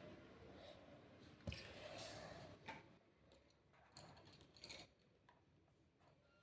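Faint scratching and light clicks of drawing materials on paper, with a sharper tick about a second and a half in.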